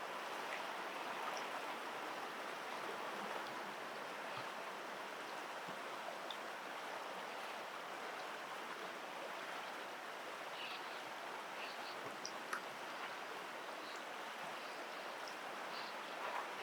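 Steady rushing of flowing stream water, with a few faint, short high chirps scattered through it, mostly in the second half.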